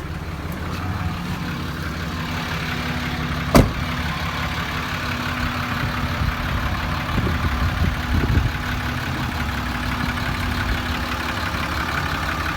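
6.7 Cummins straight-six diesel in a 2008 Dodge Ram 5500 idling steadily. There is a sharp click about a third of the way in, and a few soft knocks later on.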